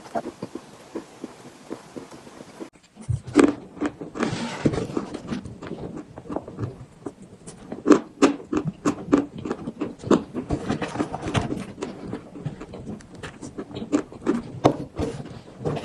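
Close-up chewing and crunching of eating chalk: a dense run of sharp, irregular crunches and clicks. The sound changes abruptly about three seconds in, after which the crunches are louder.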